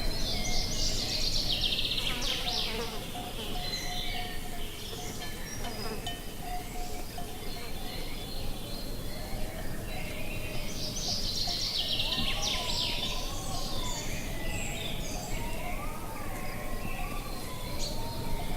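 Outdoor nature ambience: a steady low rumble of wind with two bursts of fast, buzzy high-pitched bird trilling, one at the start and one about ten seconds in, and fainter wavering whistled calls in the second half.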